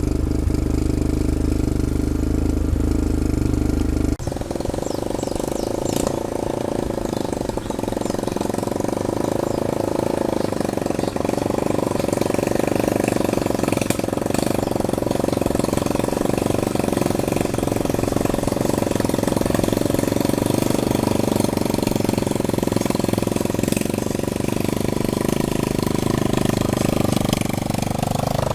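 An engine running steadily, its sound changing abruptly about four seconds in and its pitch dropping near the end.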